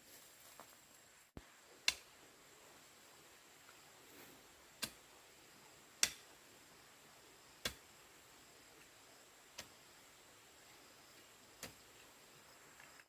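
Six single sharp knocks, one every two seconds or so, over a faint steady hiss.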